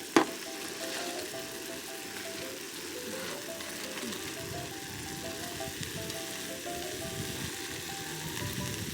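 Pepper rice with butter sizzling steadily in a hot pan, under background music with a simple melody. A sharp click sounds about a quarter second in.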